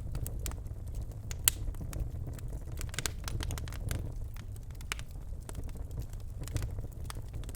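Birch logs burning in a fireplace, crackling with irregular sharp pops, the loudest about one and a half seconds in, over a steady low rumble.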